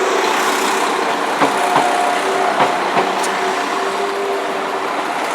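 Class 172 diesel multiple unit passing at close range: a steady rumble and hum, with sharp wheel clicks at irregular, roughly half-second to one-second intervals.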